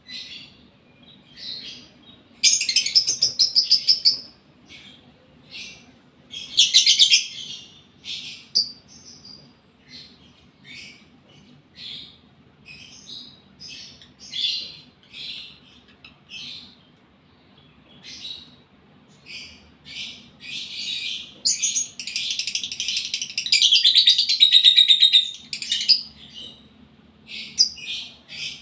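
Lovebird in breeding condition calling: a string of short, high-pitched chirps, broken by bursts of rapid chattering about two and a half seconds in, around seven seconds in, and a longer burst in the later part.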